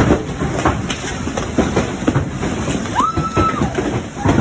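Hailstones pelting down hard, a dense rattling clatter of many impacts. About three seconds in, a high held tone rises, holds briefly and falls away.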